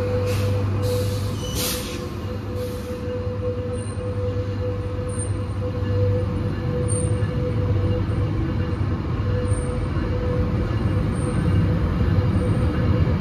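Diesel passenger train locomotive running with a steady low rumble and a constant hum, with a few brief hisses in the first three seconds and faint short squeaks now and then after.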